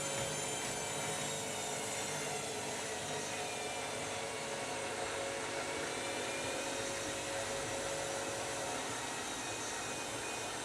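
Washing machine spinning, a steady whir with a high-pitched motor whine over it.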